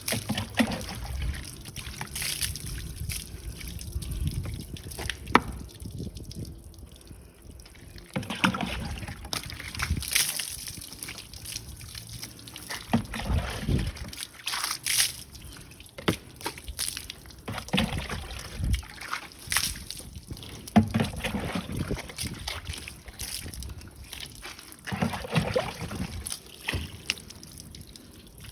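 Water sloshing and trickling over a car being washed by hand, in irregular bursts.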